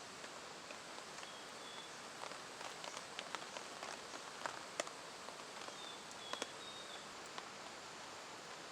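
Faint rain ambience: a steady hiss with scattered sharp ticks of drops, busiest in the middle. Two brief high, steady-pitched notes come through, one near the start and one past the middle.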